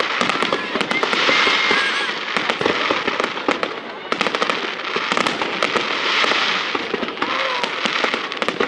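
Fireworks display: many shells bursting in quick succession with sharp bangs and crackling, over a continuous rumble of the show.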